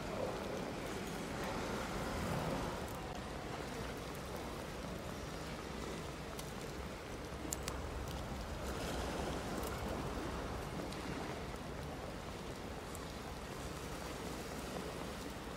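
Steady rain, an even hiss with a low rumble underneath and a few faint clicks.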